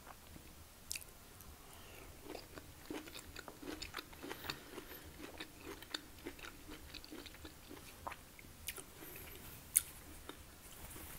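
A person chewing a mouthful of cooked broccoli and vegetables, with faint wet mouth clicks all through. One sharper click comes a little before the end.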